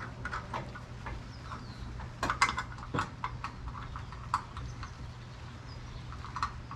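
Scattered clicks and light knocks of tools and small parts being handled during a headlight install, over a steady low hum. The loudest knocks come a little after two seconds in and around three seconds in.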